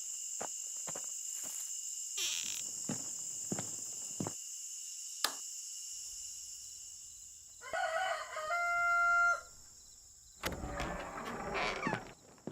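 A rooster crowing once, about eight seconds in, with a rising start and a held note of over a second; it is the loudest sound here. Before it there is a steady high insect drone with scattered light clicks, and a burst of rustling noise follows near the end.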